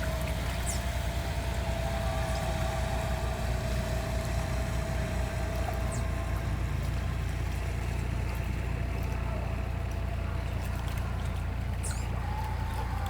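A motor running steadily: a constant low rumble with a faint steady hum above it.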